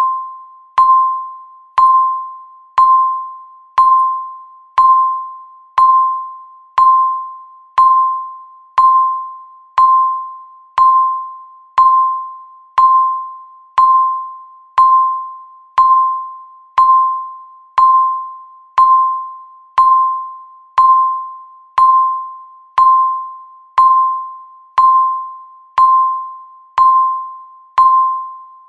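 Countdown timer beep sounding once every second: a short, bright electronic tone that rings out and fades before the next.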